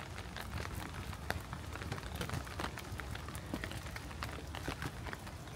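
Rain falling, with many separate drops ticking irregularly close by, over a low rumble.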